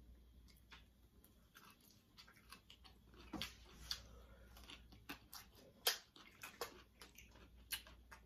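Faint chewing and biting: irregular small crunches and clicks of people eating broccoli florets and corn on the cob, with one sharper click a little before six seconds in.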